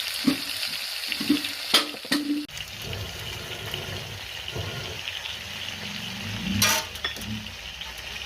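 Food sizzling as it fries in a cooking pan, with clicks and knocks of a utensil against the pan and one louder clatter about a second and a half before the end.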